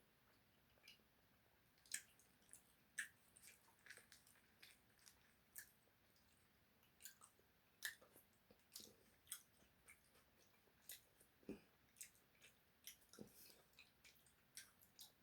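A person chewing a mouthful of juicy beef taco close to the microphone: quiet, wet, irregular mouth clicks and smacks, a couple of them every second.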